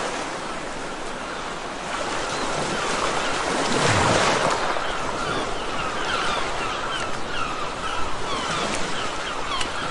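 Sea surf breaking and washing up a beach: a steady rush that swells about four seconds in, with faint short chirps over it in the second half.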